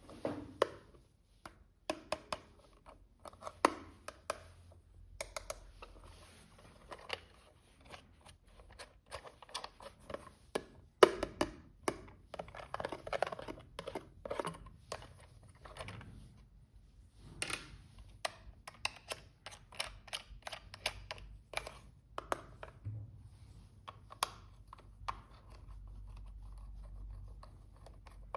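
Hands handling a toy and its packaging: a long run of sharp clicks, taps and rustles of plastic and cardboard, with a faint steady low hum near the end.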